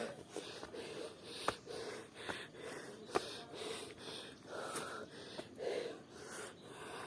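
A person breathing hard, with short, heavy, wheezy breaths about once a second, out of breath from climbing a steep path. A few faint sharp clicks come in between.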